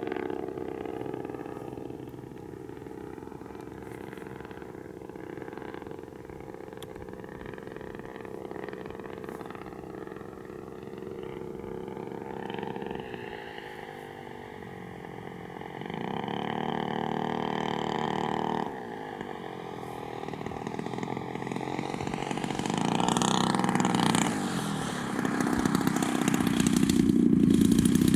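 Gas engine of a giant-scale RC warbird in flight, its steady drone gliding up and down in pitch and swelling louder as the plane makes passes, loudest near the end. The fliers think its high-end needle is open too much and say the engine is not behaving.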